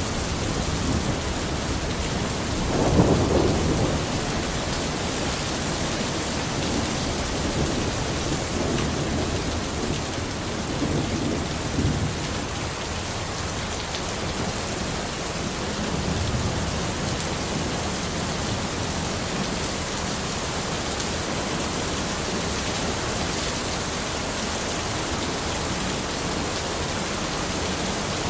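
Steady rain falling in a forest, with low rumbles of distant thunder: a louder one about three seconds in and weaker ones around ten to twelve seconds and again near sixteen.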